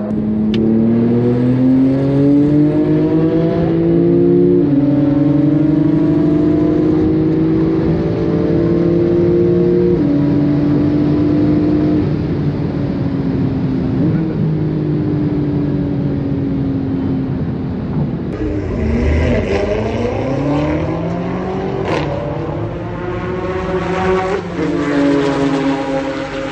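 A car engine pulls hard under full throttle, its pitch climbing and stepping down at upshifts several times in the first dozen seconds. The revs then fall away as it eases off, dip and recover, and climb again near the end.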